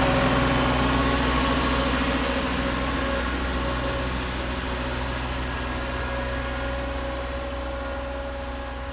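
Ford diesel tractor engine running steadily under the load of its rear-mounted snowblower, gradually growing fainter.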